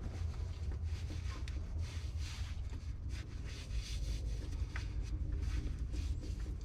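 Irregular rubbing and scraping noises, repeated a few times a second, over a steady low rumble.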